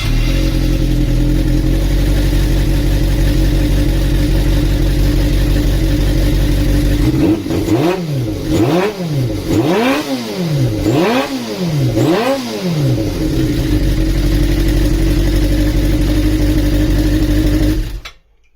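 Kawasaki Zephyr 400 air-cooled inline-four motorcycle engine starting up abruptly and idling steadily. Partway through it is revved five times in quick succession, each rev rising and falling, then it drops back to idle and cuts off suddenly.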